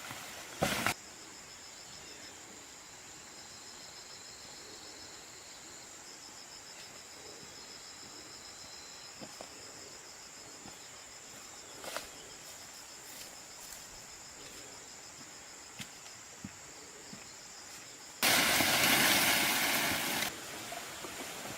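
Insects trilling steadily in a high, finely pulsed chirr, with a few sharp clicks. About eighteen seconds in, a loud rushing noise cuts in for about two seconds, then drops away.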